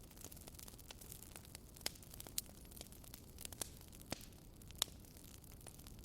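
Wood fire crackling: irregular sharp pops and snaps over a soft, steady hiss of burning logs, with the biggest pops a couple of times a second at most.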